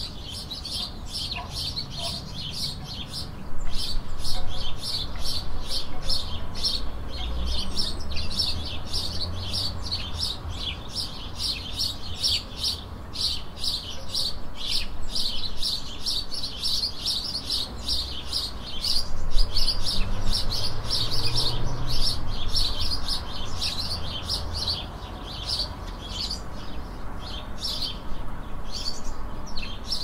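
Small songbirds chirping continuously, a fast run of short high chirps several to the second. A low rumble lies beneath and swells twice, about four seconds in and again around twenty seconds.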